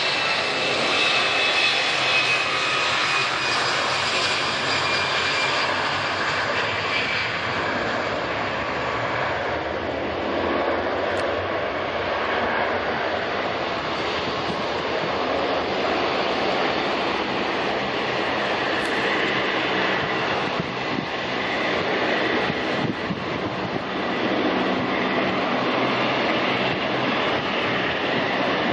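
Boeing 787-9 Dreamliner's turbofan engines running: a steady rush of jet noise, with high whining tones that fade over the first six seconds or so while the rush carries on.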